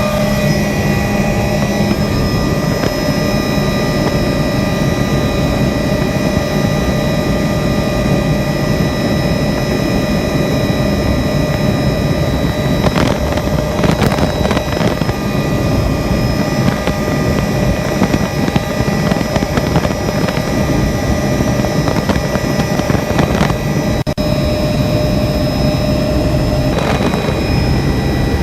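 Helicopter in flight: steady, loud engine and rotor noise with a constant high whine over a deep rumble.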